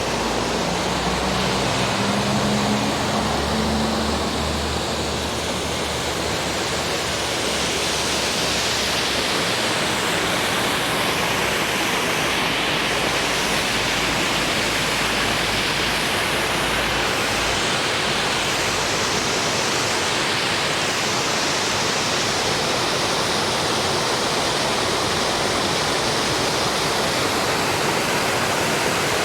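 Roadside waterfall: water pouring and splashing in a steady, unbroken rush.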